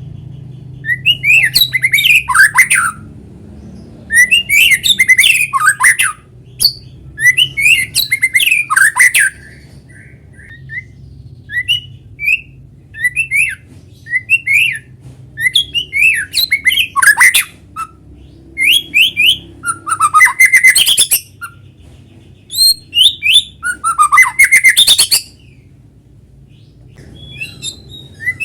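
White-rumped shama (murai batu) in full, continuous song: loud bursts of rapid whistled and rattling phrases come every two to three seconds, with short pauses between, over a faint low hum.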